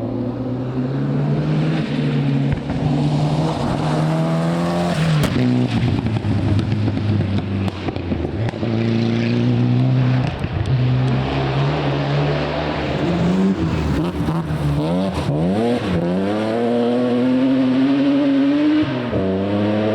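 Rally car engine at full stage pace, its pitch dropping as it slows and then climbing through the gears as it accelerates again, twice over, with a few sharp cracks among the engine noise.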